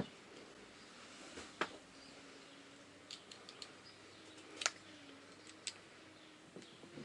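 Faint, scattered clicks and taps of small parts being handled, a few sharp ticks spread over several seconds, as a trim cover and its screws are fitted back in place.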